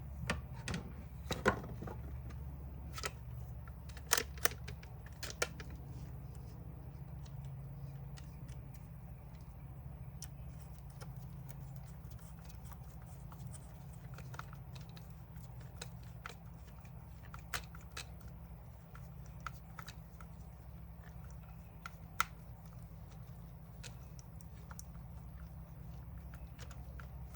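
Scattered clicks and taps of small plastic drill parts being handled and fitted into the housing, thicker in the first half, over a steady low hum.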